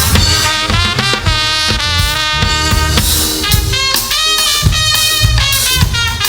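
Live gospel band playing an upbeat tune, with a horn line over drum kit and bass.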